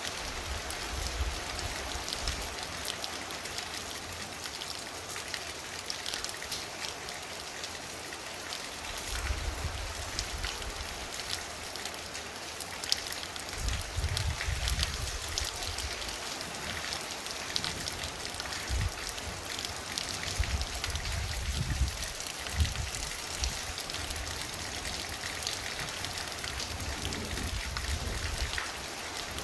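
Very heavy, torrential rain pouring down, a dense steady hiss thick with individual drops pattering on surfaces. Low rumbles swell and fade several times through it.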